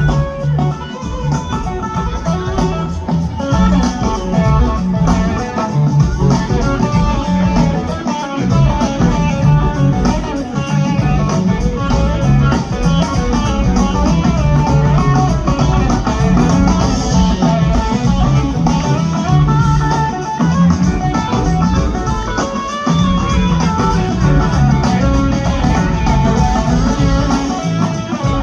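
A live rock band playing an instrumental passage, led by electric guitar with bass guitar underneath.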